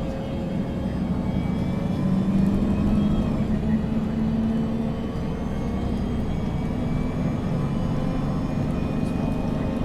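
MAN NG 313 CNG articulated city bus under way, heard from inside: its compressed-natural-gas engine and drivetrain running with a steady hum. The engine note swells a little about two seconds in and eases back after a second or so.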